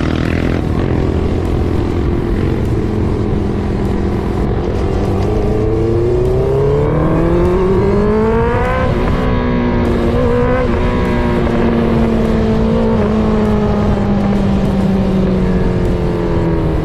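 Honda CBR650R inline-four engine breathing through an aftermarket full exhaust (Akrapovic replica), under way. The revs climb steadily from about five to nine seconds in, then hold high and even, easing off slightly near the end.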